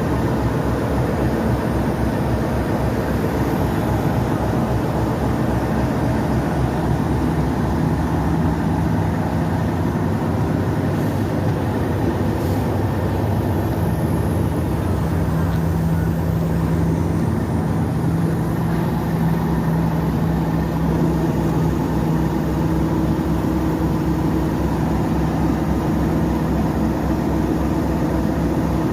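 Diesel train engine running steadily, with its rumble heard from on board; a steady hum joins in partway through.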